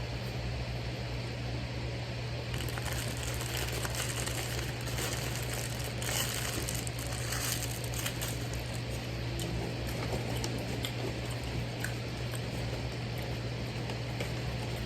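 Paper food wrapper crinkling and rustling as it is handled, busiest between about two and eight seconds in, over a steady low hum.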